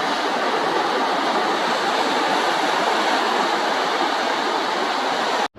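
Ocean surf breaking and washing up on the beach: a steady rush of water that cuts off suddenly near the end.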